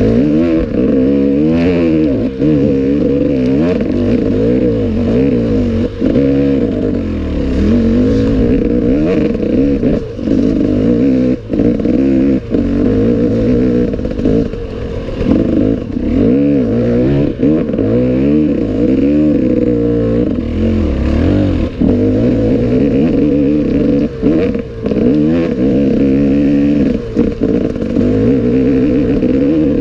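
Off-road enduro motorcycle engine riding a forest trail, revving up and down constantly with brief drops as the throttle closes, over clattering from the bike.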